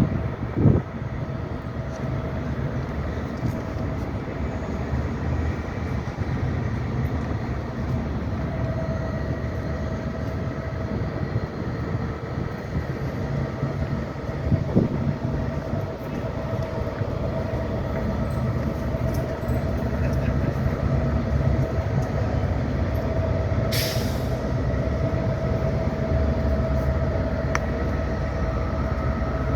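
A train at the station, running steadily with a low rumble and a constant hum. There are a couple of clicks, and one short sharp hiss of air about 24 seconds in.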